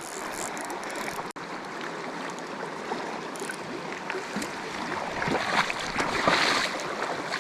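River water rushing over rocks in a steady hiss, with a few louder splashes about six seconds in.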